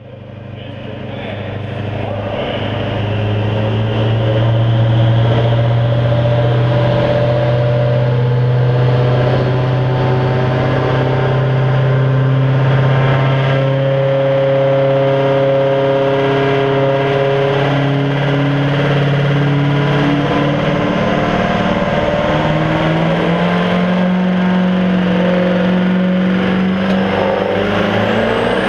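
Pro Street diesel pickup truck engine running hard under load in a truck pull, with a steady pitch that climbs about two-thirds of the way through and again near the end. The sound swells in over the first few seconds.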